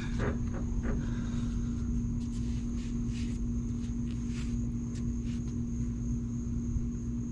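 A steady hum with one unchanging pitch and a low rumble, with scattered short rubbing and scraping sounds of a rag wiping down a greasy coil spring.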